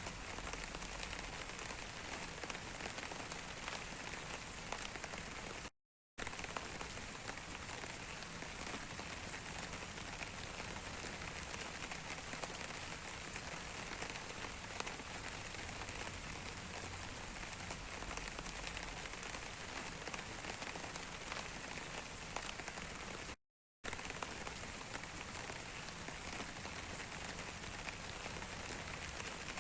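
Steady rain with many small raindrop ticks falling on a surface. The sound cuts out to silence briefly twice.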